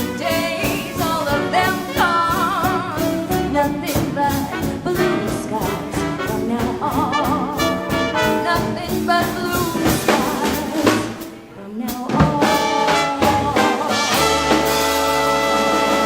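Live swing band with saxophone and brass over drums, playing up-tempo. After a short break about eleven seconds in, the band comes back and holds one long chord to close the number.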